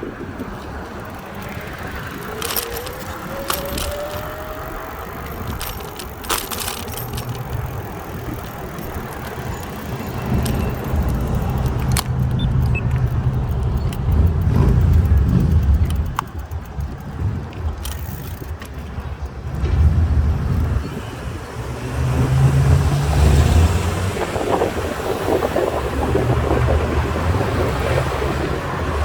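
Road and traffic noise during a bicycle ride: a low rumble that swells and fades as vehicles go by, with scattered clicks and rattles in the first half and a brief rising tone a few seconds in.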